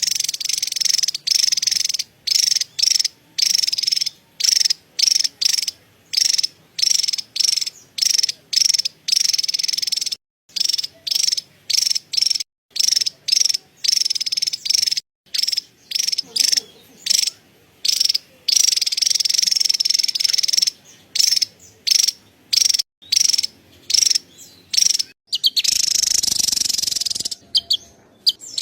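Javan tesia giving its high-pitched, buzzy chattering call (cerecetan) in quick repeated bursts with short breaks, running on unbroken for a few seconds near the end.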